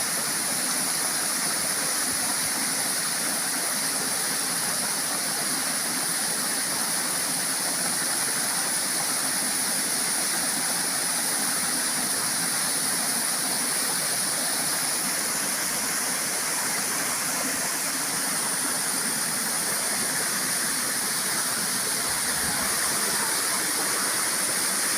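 Waterfall: a steady rush of falling water that keeps an even level throughout.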